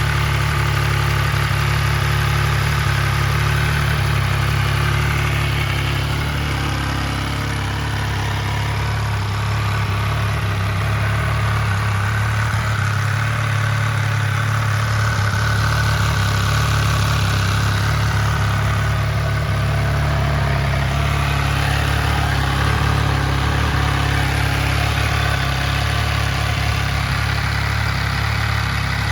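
MV Agusta Rivale 800's three-cylinder engine idling steadily through an aftermarket Arrow carbon silencer.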